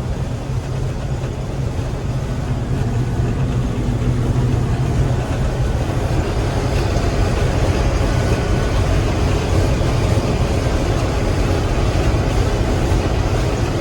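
Gleaner M3 combine running steadily while harvesting wheat: a constant low engine drone with the noise of the threshing machinery over it.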